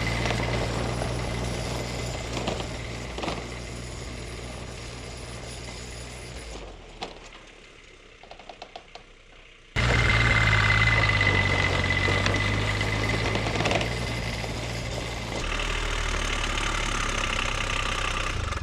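Small diesel engine of a diesel-swapped Power Wheels ride-on running at full throttle on an uphill climb. It grows fainter over the first several seconds, down to a few faint clicks, then cuts back in loud about ten seconds in and gets louder again near the end.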